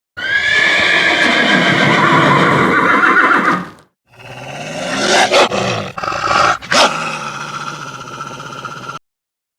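Horse whinnying twice: one call of nearly four seconds, then after a brief gap a second, longer call broken by a few sharp snorts.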